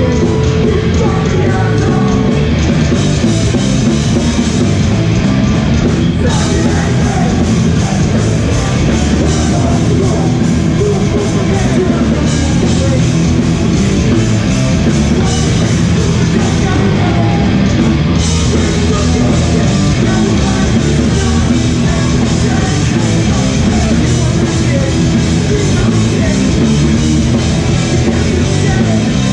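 Hardcore punk band playing live, loud and dense throughout.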